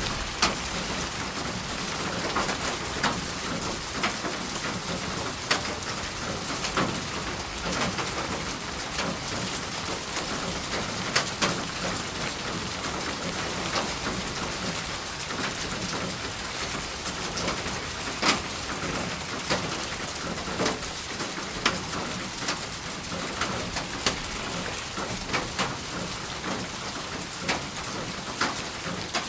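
Steady rain falling, with frequent sharp ticks of single drops striking close by.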